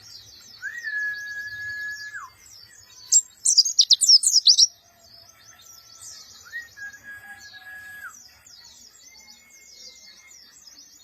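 Mountain white-eye (pleci) singing a short, rough burst of rapid chirps about three seconds in, over steady faint high twittering. Twice a long flat whistle holds one pitch for about a second and a half before dropping away.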